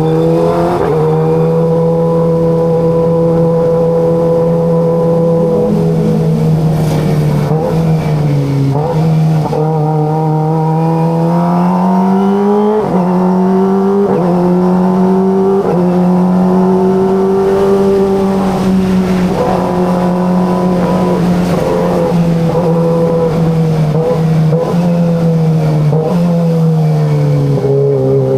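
Kawasaki ZX25RR's 250 cc inline-four engine pulling at steady revs while riding, the exhaust pitch holding level for long stretches. It dips and jumps at quick gear changes a few times, and the revs fall away near the end as it slows.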